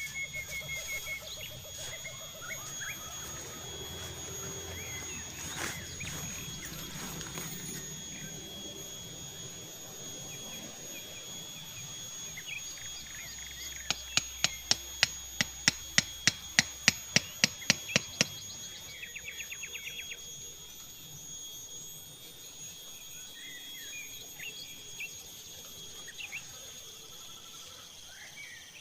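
Forest ambience with a steady high-pitched insect drone and scattered bird chirps. About halfway through, a quick run of about sixteen sharp, evenly spaced clicks or knocks, roughly four a second, lasts about four seconds and is the loudest sound.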